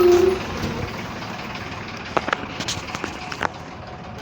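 A motor vehicle horn sounds once, ending about half a second in, followed by the steady noise of road traffic with a few light clicks.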